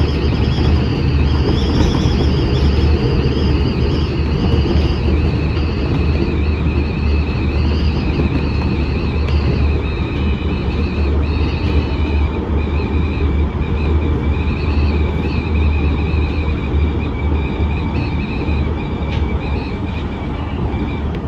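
Senboku Rapid Railway 5000 series electric train running at speed, heard from inside the front car: a steady low rumble of wheels on rail with thin, wavering high-pitched whines above it.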